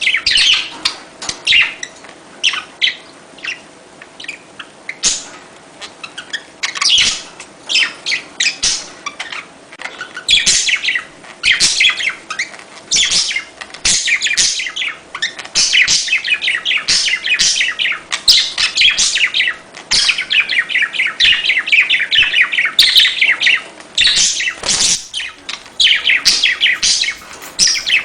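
Budgerigars chattering and warbling in fast, high chirps, sparse at first and near-continuous from about ten seconds in.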